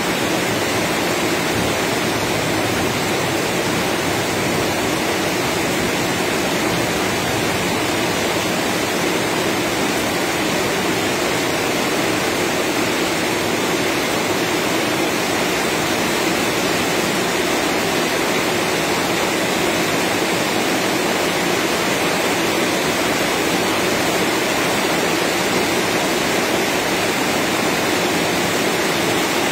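Heavy rain pouring steadily onto a corrugated metal porch roof, a constant even hiss.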